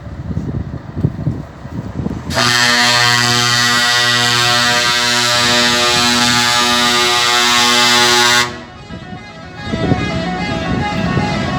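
A truck air horn blasts loudly and steadily for about six seconds and then cuts off suddenly. Before it there is a rough, low truck engine rumble, and after a short lull a quieter mix of engine noise and steady tones returns.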